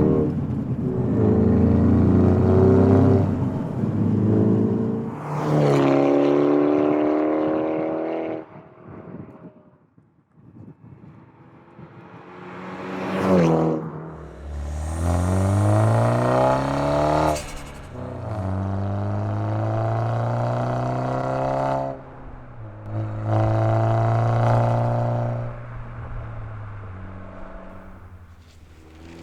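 MINI Clubman F54 Cooper S's turbocharged four-cylinder running through a Scorpion non-resonated GPF-back exhaust with a GPF-delete section, pulling hard through the gears several times with the engine note rising and dropping at each shift. It eases off to near quiet about ten seconds in, pulls again, and fades near the end.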